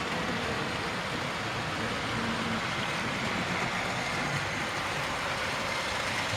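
00 gauge model locomotives running on the layout's track: a steady whir of small electric motors and wheels on rail, with no breaks or changes.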